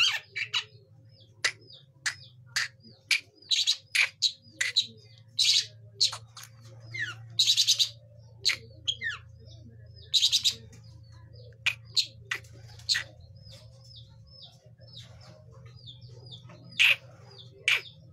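Young long-tailed shrike practising its song: a string of short, hooked chirps mixed with loud, harsh scratchy notes. The chirps come about twice a second toward the end.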